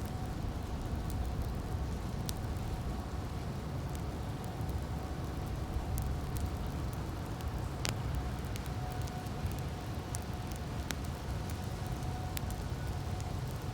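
Campfire crackling: scattered sharp pops and snaps over a steady low rumble, with one louder pop about eight seconds in.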